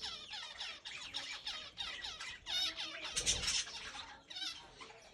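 A mixed flock of Java sparrows and zebra finches calling, many short squeaky chirps overlapping without a break.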